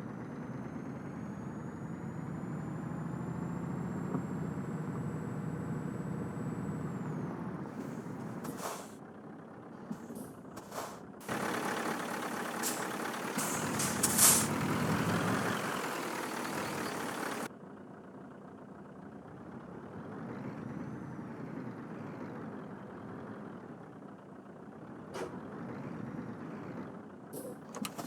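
Scania truck's diesel engine running, its pitch rising and falling, with a few knocks and clicks. About eleven seconds in a loud hiss starts abruptly and lasts about six seconds before cutting off, and then the engine runs on more quietly.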